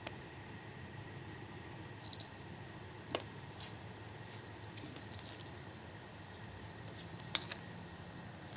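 Light metallic jingling in short, scattered bursts, like a small bell or keys being shaken, over a steady low background hum.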